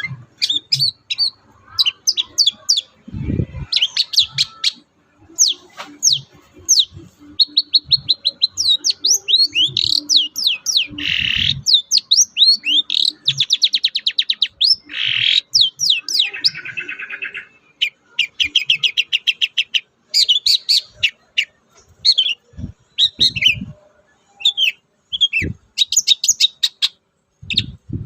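Long-tailed shrike (cendet) singing in full voice. It pours out a fast, varied song of sharp chirps, gliding whistles and rapid trills, broken by short pauses. A few low thumps sound now and then, the clearest about three seconds in.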